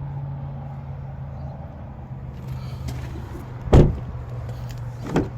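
A car door shut with one loud thump about two-thirds of the way in, followed by a lighter knock near the end, over a steady low hum.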